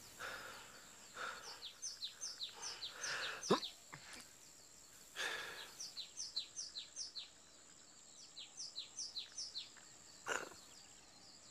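Bird calling in quick runs of short, falling chirps, several a second, over a quiet ambience. A few short breathy puffs come in between, and a single quick falling whistle-like tone about three and a half seconds in is the loudest moment.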